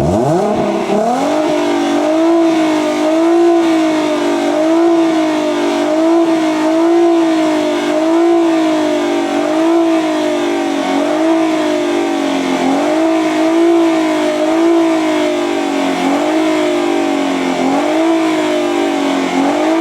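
2014 Ford Mustang's 3.7-litre V6 engine, revved up sharply at the start, then held at raised revs with the pitch wavering up and down about once a second.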